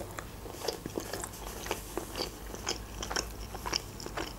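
A person chewing a mouthful of sushi roll close to the microphone: an irregular run of small wet mouth clicks, several a second.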